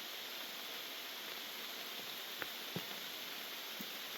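Steady hiss of heavy rain, with a few sharp single taps a little past halfway and again near the end.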